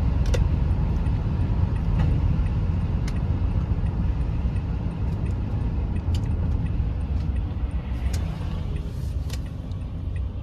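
A car driving slowly through snow, heard from inside the cabin: a steady low rumble of engine and tyres, with a few faint clicks.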